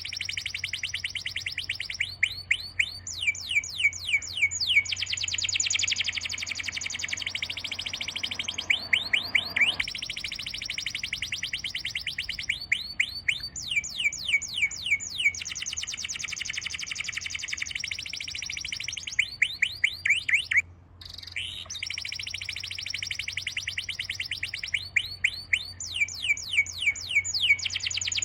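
Songbird singing: fast trills of repeated down-slurred whistled notes in phrases that come every few seconds, over a low steady hum. The sound cuts out briefly about two-thirds of the way through.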